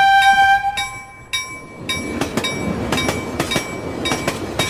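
A bell-like chime dies away in the first second. Then a passenger train passes, a steady rumble with its wheels clacking over the rail joints at uneven intervals.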